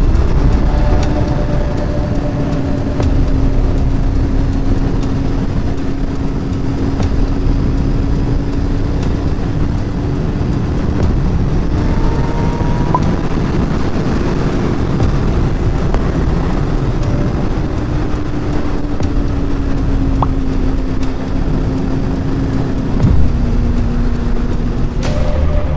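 Motorcycle engine holding a steady pitch at highway cruising speed under heavy wind rush. The pitch dips and shifts a few seconds before the end.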